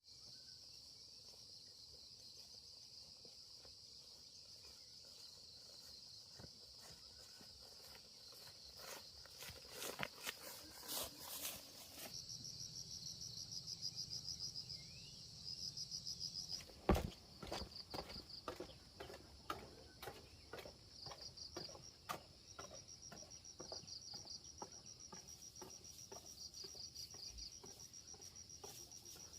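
Insects chirping in a steady high chorus, with rapid pulsed chirps coming and going from about the middle on. Scattered light clicks and knocks run through it, with one louder knock partway through.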